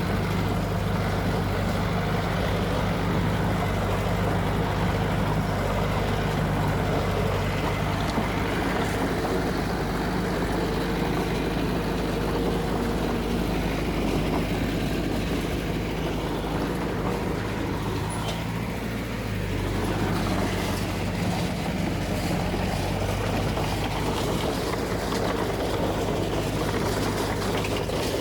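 Heavy diesel engine of earthmoving equipment running steadily under work, with a change in engine speed about two-thirds of the way through.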